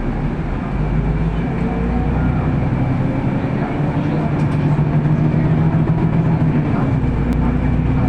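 Cabin noise inside a moving city bus: the engine drones steadily along with road and body rumble as the bus drives between stops.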